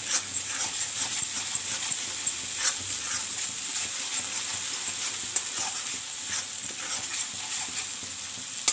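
Ginger-garlic paste with green chillies sizzling in hot oil in a wok while a metal spatula stirs and scrapes the pan. A steady sizzle with frequent short scrapes of the spatula, at the light-frying stage of the masala.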